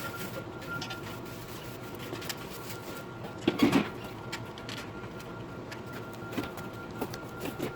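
Sped-up clatter of grill assembly: scattered clicks and knocks of metal parts and hand tools being handled, with a louder cluster of knocks about three and a half seconds in.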